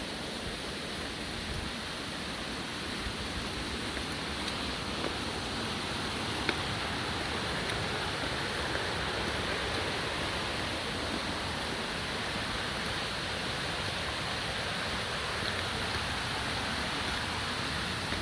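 Steady rush of a waterfall, an even wash of falling water that grows slightly louder, with a single faint click about six and a half seconds in.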